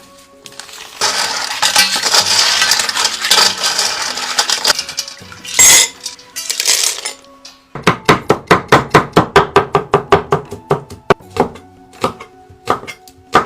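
Kitchen-utensil sounds over quiet background music. First comes a few seconds of loud noisy hiss with a sharp clatter near the middle. Then a fast, even run of sharp knocks, about five a second, thins out and slows toward the end.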